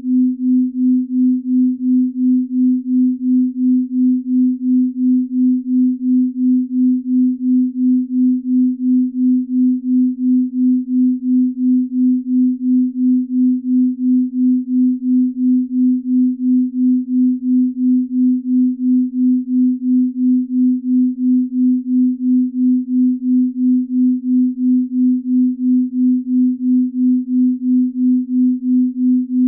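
Binaural beat track: a low, pure, steady tone whose loudness pulses evenly about two and a half times a second, the slow beat between two slightly detuned tones.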